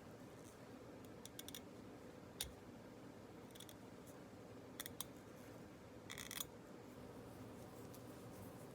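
A few faint clicks and one short scrape, about six seconds in, as the edge of a metal Gracey 13-14 curette is tried against a plastic test stick to check its sharpness, over a low steady room hum.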